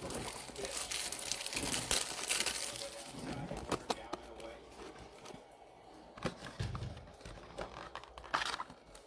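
Plastic packaging crinkling and rustling, with scattered clicks and taps of handling, busiest in the first few seconds and then thinning out.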